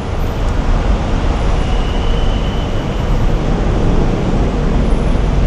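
Steady road traffic noise: a loud, unbroken rumble of cars and their engines.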